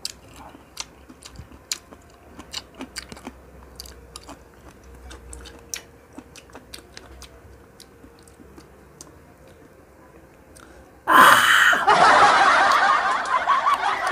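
A person chewing pineapple close to the microphone: faint wet clicks and crunches as the mouthful is chewed. About eleven seconds in, a sudden loud rushing noise takes over.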